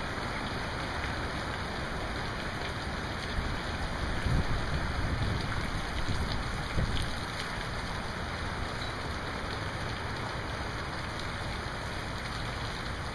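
Steady rain falling, a continuous even hiss of drops, with a few low thumps on the microphone around four to seven seconds in.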